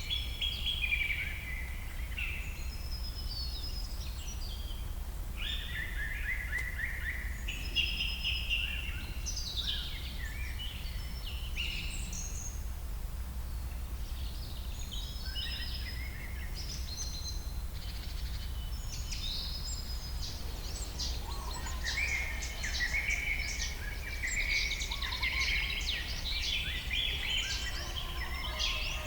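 Songbirds singing in short chirping and trilling phrases, with a steady low rumble underneath; the singing grows busier and overlaps in the last third.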